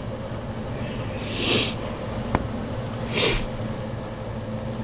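Two short breaths through the nose close to the microphone, about a second and a half in and again near three seconds, over a steady low room hum, with a faint click in between.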